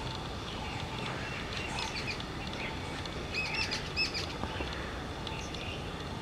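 Small birds chirping in quick high notes, the calls gathering about two to four seconds in, over a steady outdoor hiss.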